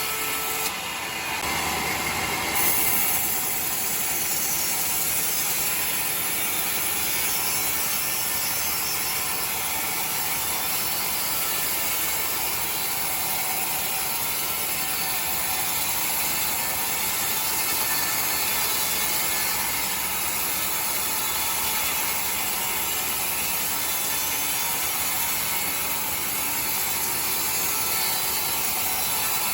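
Sawmill saw running through a log, a steady, even mechanical cutting noise with a high hiss.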